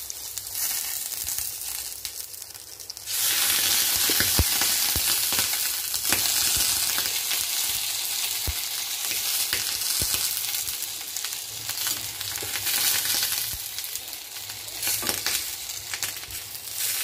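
Pomfret in green masala sizzling in its own juices, with no oil, on a banana-leaf lining in a kadai, with a few light knocks of a steel spatula. The sizzle gets clearly louder about three seconds in and stays up.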